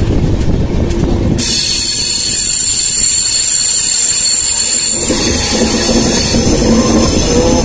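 Passenger train coaches running on the track, heard from an open coach door: from about a second and a half in, a high, steady squeal of wheels on curved track rises over the rumble and fades about five seconds in. The rumble then turns deeper and hollower as the coaches run into a rock tunnel.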